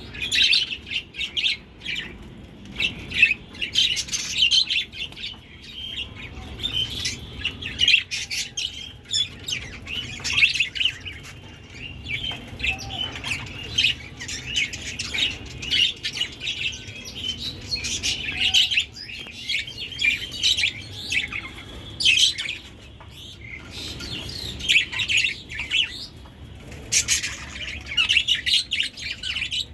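Budgerigars chirping and chattering continuously, in quick trills and squawks.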